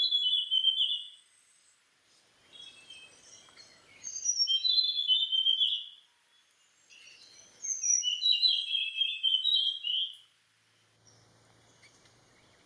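Hainan blue flycatcher singing: three short phrases of quick, high, whistled notes, each about two seconds long, with pauses between them. Each phrase starts with higher notes and steps down to a run of lower ones.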